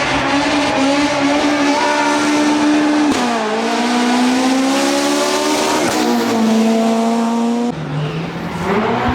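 Rally car engine held at high revs. The pitch drops sharply at gear changes about three and six seconds in, and again near the end, climbing back each time.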